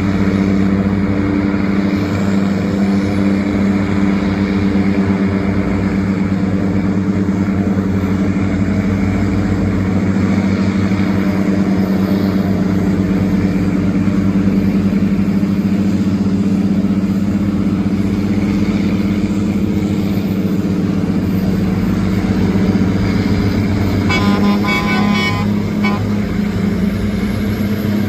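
Tugboat engine running steadily with a low drone. About three-quarters of the way through, a horn sounds for around two seconds.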